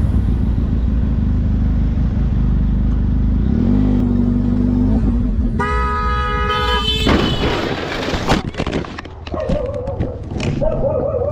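Vehicle running with a steady low rumble, then a long vehicle horn blast of a bit over a second about halfway through. Near the end a wavering higher tone comes in over scattered knocks.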